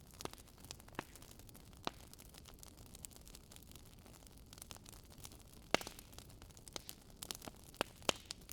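Wood fire crackling in a fireplace: scattered sharp pops and snaps over a faint steady hiss, the loudest pops a little past halfway and near the end.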